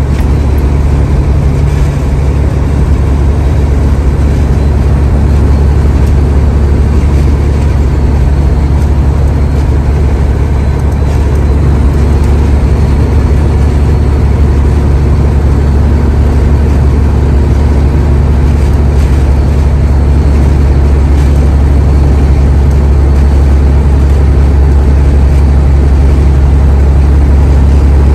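Semi-truck running down the road, heard from inside the cab: a loud, steady low drone of the diesel engine and road noise that holds unchanged throughout.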